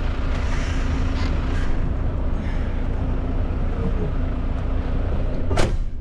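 Heavy diesel truck engine idling steadily, with busy outdoor yard noise over it and a sharp knock about five and a half seconds in.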